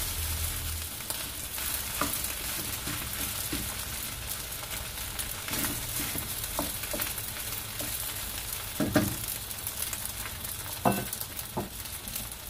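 Pork fried rice sizzling in a nonstick wok as a wooden spatula stirs and turns it, with scattered scrapes and taps of the spatula against the pan.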